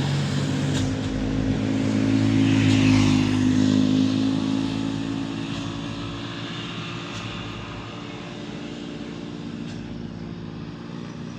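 A road vehicle's engine running steadily, loudest about three seconds in, then slowly fading as it moves away.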